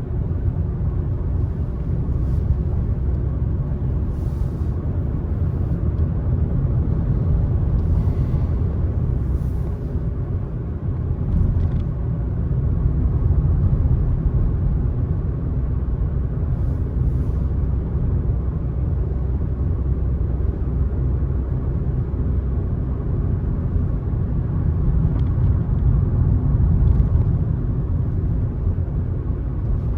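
Car driving at steady speed: a continuous low rumble of engine and tyres on the road surface, with small swells in level.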